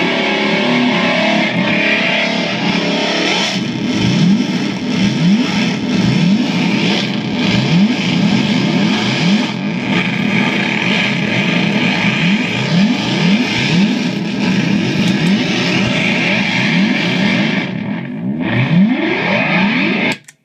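Guitar effects pedals (Rupture 2, Schizodelay and EarthQuaker Devices Rainbow Machine) self-oscillating in a feedback loop: a dense, distorted electronic noise with repeated rising pitch sweeps, roughly one a second, cutting off suddenly at the end.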